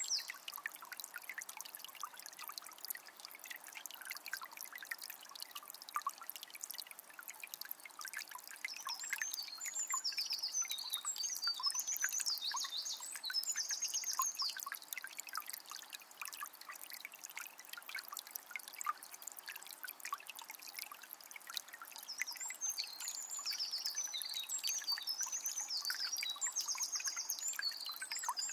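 Calm forest river trickling and babbling steadily. A songbird sings over it in two bouts of quick trills, about nine seconds in and again near the end.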